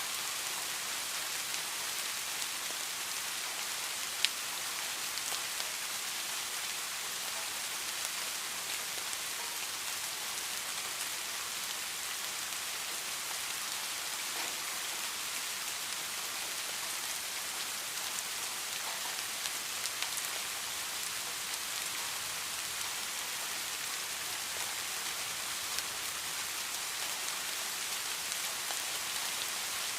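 Steady rain falling: an even, high hiss with scattered drop taps, and one sharper drip about four seconds in.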